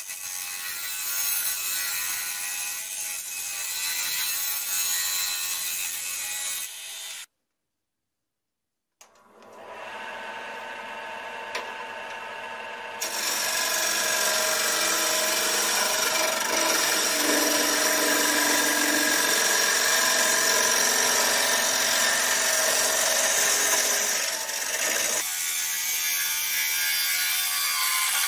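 Wood lathe spinning a chestnut bowl blank while a carbide-tipped turning tool cuts and scrapes the wood, a steady hiss over the lathe's hum. The sound drops out completely for about two seconds a quarter of the way in, and comes back louder about halfway through.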